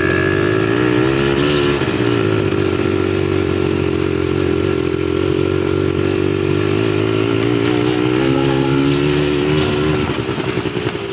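ATV engine running steadily under throttle, its pitch wavering slightly as the speed changes, then easing off about ten seconds in.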